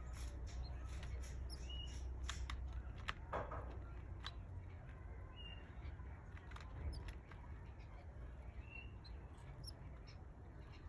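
Canary chicks in the nest, giving a few short, high chirps amid many small clicks and ticks, over a low hum that fades about four seconds in.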